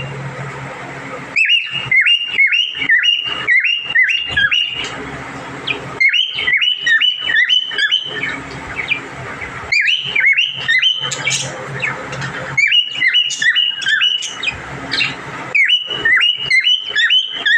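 Small pet parrots chirping in quick runs of short, repeated sweeping calls, several a second, broken by brief pauses.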